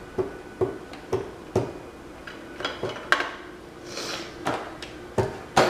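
Light plastic Jenga Quake blocks clicking and knocking against each other as a block is tapped and worked out of the tower, a string of separate sharp clicks with the loudest near the end.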